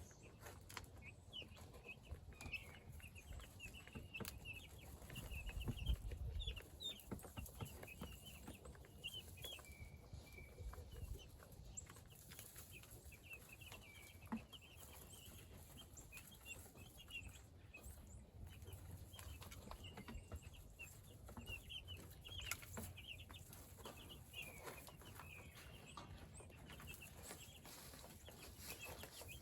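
A flock of meat chickens cheeping and softly clucking, many short high calls scattered throughout. A brief low rumble comes about six seconds in.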